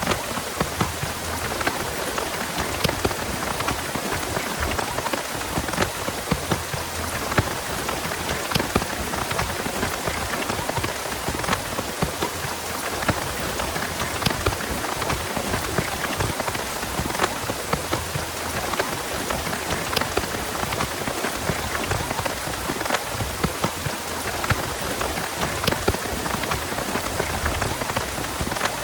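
Heavy rain falling steadily: a constant hiss with many sharp, close drop impacts striking a surface.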